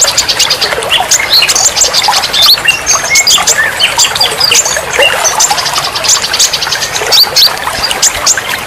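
Several songbirds chirping and whistling in many short, overlapping calls and quick pitch glides, over a steady trickle of running water.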